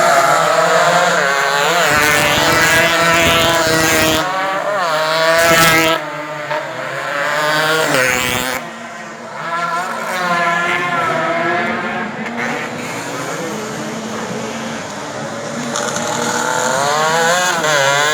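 Racing motorcycle engines revving hard, their pitch climbing and dropping again and again through the gears.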